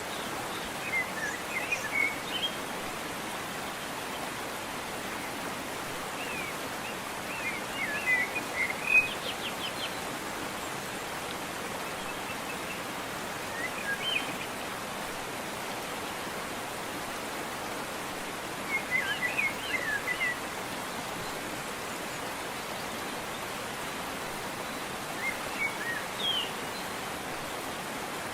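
Steady rushing of a waterfall, with a songbird breaking in with short bursts of chirping phrases five times.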